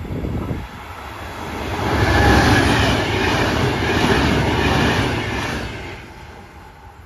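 An electric train passing through a station, growing louder to a peak about two seconds in, holding for a few seconds, then fading away.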